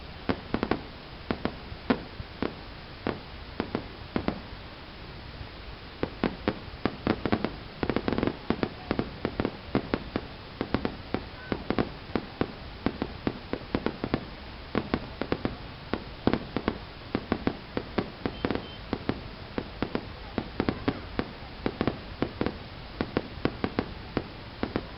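Fireworks going off: a rapid, irregular string of sharp bangs and cracks, thinning out briefly about five seconds in, then coming thick again.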